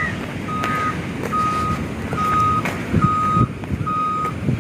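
Reversing alarm of a Wirtgen road-milling machine, a single high beep repeating a little faster than once a second, over the low rumble of its engine.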